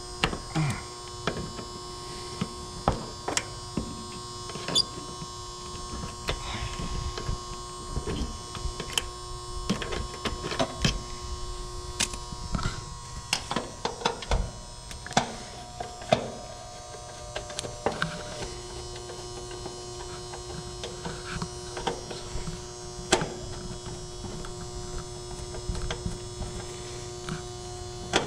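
Steady electrical hum from an air-conditioning unit, joined throughout by sharp clicks and taps of hands and tools working on it. The hum changes pitch for a few seconds partway through.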